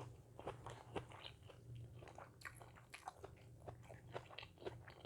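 A person chewing and biting food close to the microphone: irregular small crunchy clicks and mouth sounds, several a second, over a faint steady low hum.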